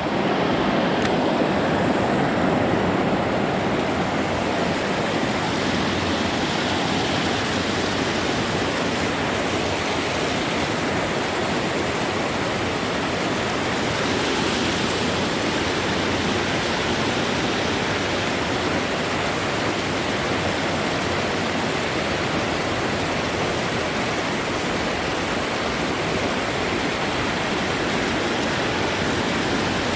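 Rushing creek water: a steady, even rush that does not change.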